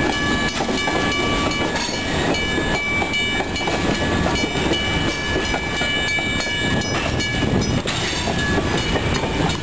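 Train rolling past close by: a steady, loud rumble of railcar wheels on the rails, with thin, high, steady whining tones above it.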